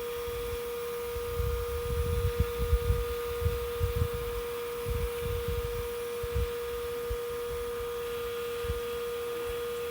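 Steady hum of a shop-vac-style bee vacuum motor running as it sucks up a honeybee swarm. Irregular low rumbles come and go from about a second in until about six and a half seconds.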